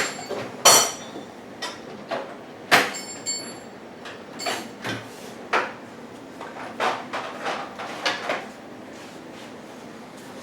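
Metal hand tools clanking and clinking against each other and against metal, about a dozen sharp knocks. Two of them, near the start, ring on briefly. This is the sound of sorting through wrenches for a shorter one.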